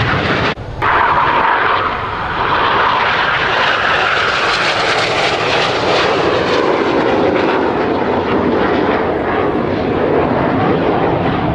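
BAE Systems Hawk jet trainers with Rolls-Royce Turbomeca Adour turbofans flying past in a display, a loud steady jet roar with a slowly shifting pitch. The roar breaks off for a moment about half a second in.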